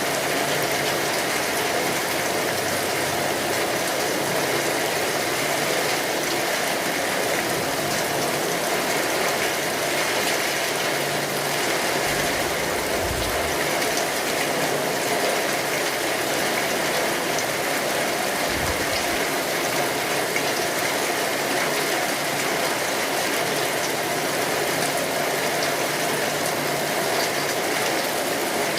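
Steady rain falling, an even hiss with a fine crackling texture. Two brief low rumbles come near the middle, about five seconds apart.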